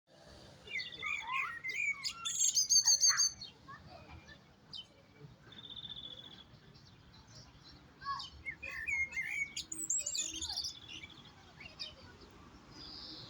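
European goldfinch singing: fast, varied twittering with quick trills, in two bursts of song with a short pause between.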